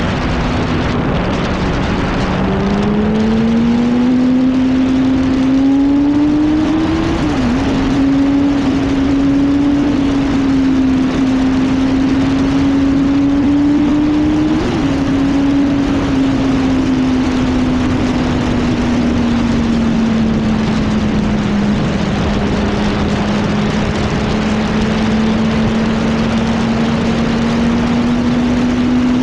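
Sport motorcycle's inline-four engine, a Yamaha R1, pulling under power. Its pitch climbs for the first several seconds as it accelerates, then eases slowly and holds fairly steady, over a constant rush of wind noise.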